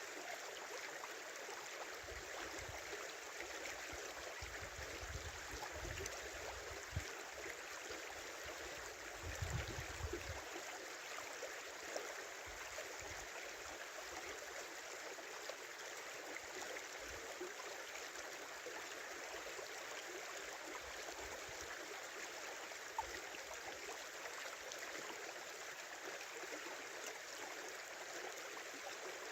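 River water flowing steadily, a continuous rushing and babbling. A few low rumbles sound over it from about two to ten seconds in.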